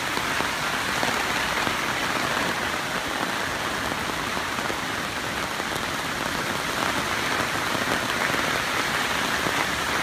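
Steady rain falling on leaves, grass and hammock tarps.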